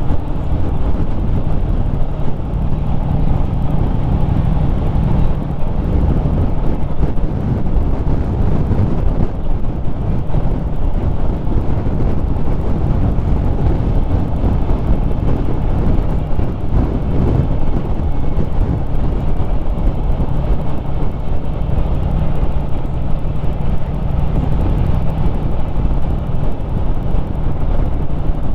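Harley-Davidson Street Rod 750's V-twin engine running steadily under way on the road, a constant low engine note with no marked revs up or down.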